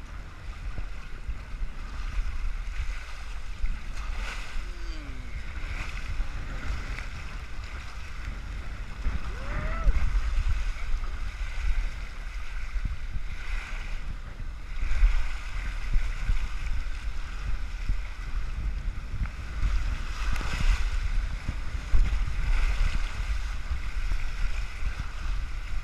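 Wind buffeting the microphone over moving water, with a steady rumble. Brief distant voices rise and fall about 5 and 10 seconds in.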